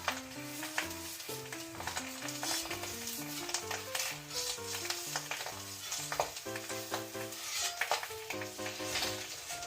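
Food or oil sizzling in a square iron frying pan being seasoned, with a utensil stirring and scraping in it. A tune with a stepping melody and bass plays alongside.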